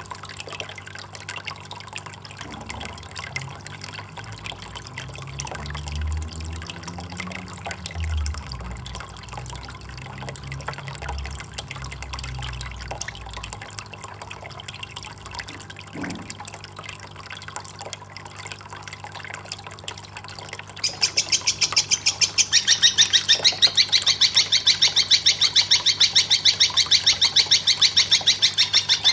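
Songbird-training (masteran) mix: a faint water trickle with some low sounds, then, about two-thirds of the way in, a loud, high-pitched, rapidly pulsing call starts and keeps going.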